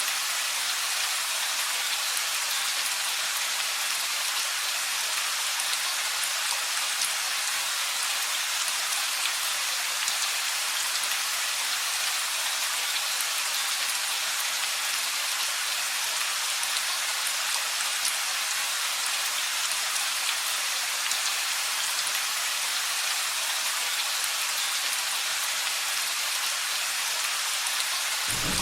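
Steady rain falling, an even hiss of drops on surfaces, with a loud thunderclap breaking in at the very end.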